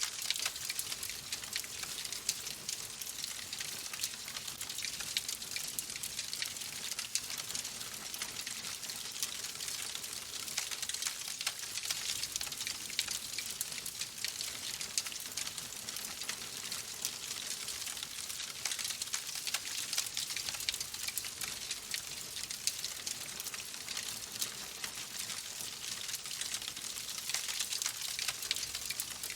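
Wood fire crackling in a fireplace: a steady hiss with many small, sharp pops.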